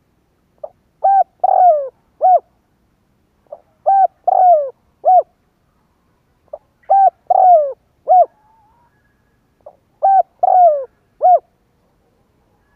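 Spotted dove singing its cooing song: four phrases about three seconds apart. Each phrase is a soft short note, then a run of clear coos with one drawn out and falling in pitch, ending on a short final coo.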